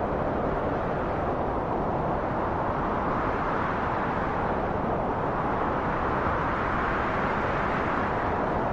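Wind blowing steadily, a deep rushing noise that grows a little brighter around the middle before settling back.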